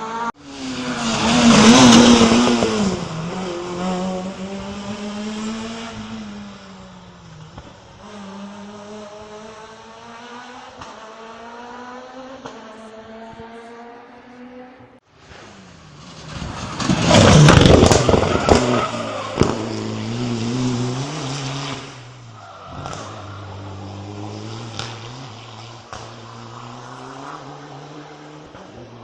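Rally cars passing close by at speed, twice: a loud rush of engine and tyre noise about two seconds in and again about halfway through, each followed by the engine note carrying on as the car drives off.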